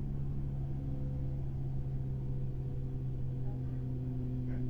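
Cabin sound of a JR 103 series electric motor car (MoHa 103, MT55 traction motors): a steady low rumble with an even hum from the underfloor equipment.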